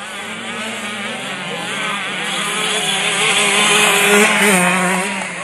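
Motocross dirt bikes racing past, their engines whining at high revs, several at different pitches, growing louder to a peak about four seconds in and then fading.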